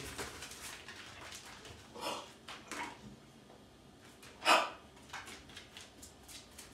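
Pit bull puppy on the move while fetching, with light clicks and a few short, sharp sounds, the loudest about four and a half seconds in.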